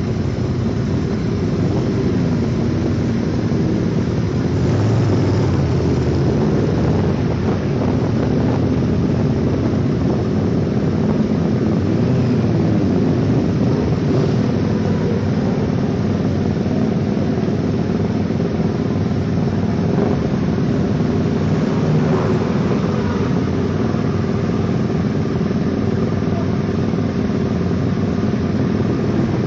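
Motorcycle engines idling steadily, with a few brief rises and falls in pitch from bikes being revved.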